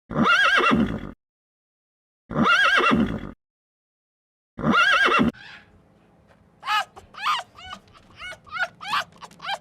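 A horse whinnying, the same call sounding three times with gaps of about a second between. About five seconds in it cuts to a different sound: a quick run of short, high chirps over a faint steady hum.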